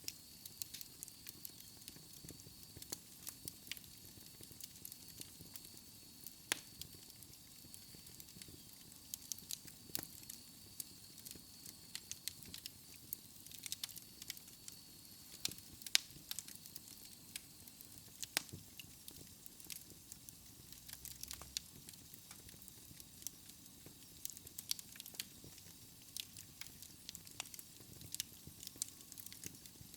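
Wood fire crackling in a fireplace: irregular sharp pops and snaps over a low hiss, with a faint thin high whistle through the first half or so.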